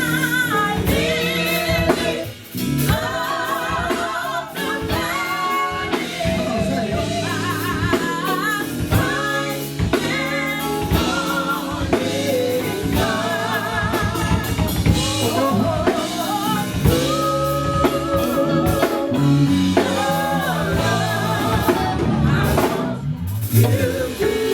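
Live gospel quartet music: a lead singer's voice with heavy vibrato over a band with drum kit, bass and guitar.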